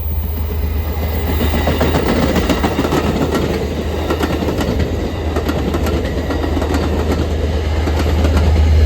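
Amtrak San Joaquin passenger train passing close by, its wheels clacking rapidly over the rail joints over a steady low rumble that grows louder near the end.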